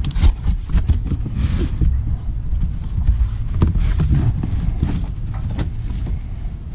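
Scattered knocks and scrapes over a low rumble as the shipping box of a new hydrostatic transaxle is handled and opened.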